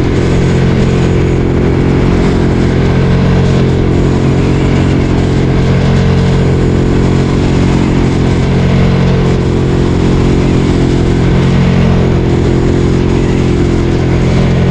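Ducati Streetfighter 848's L-twin engine running at steady revs while riding, its pitch nearly constant, with a rush of wind and road noise over it.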